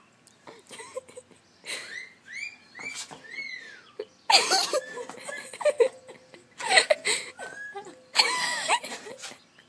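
Pet birds chirping in short rising-and-falling calls, then several loud harsh screeches about four, seven and eight seconds in, mixed with a person laughing and copying the bird calls.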